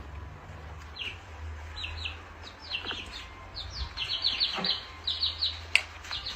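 A small bird chirping: short high chirps that fall in pitch, often in quick runs of two to four, coming more thickly in the second half. A low steady hum lies under it, and there is a sharp click near the end.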